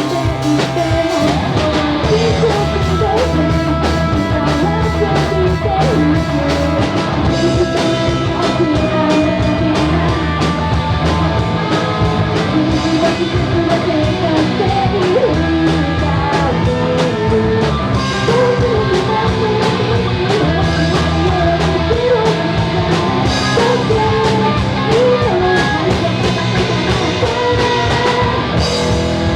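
Rock song with a sung vocal line over guitar and drums, with a steady beat.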